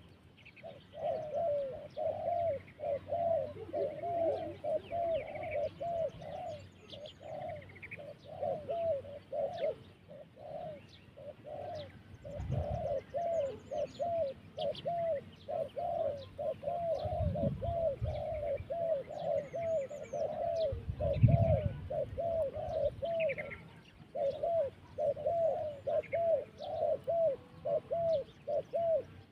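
Spotted dove cooing over and over in long runs of short, arched coos, with a couple of brief pauses. Small birds chirp faintly higher up, and a few low thuds come about halfway through.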